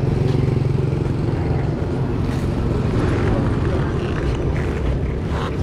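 A motorbike engine running steadily under way, with rushing wind and road noise.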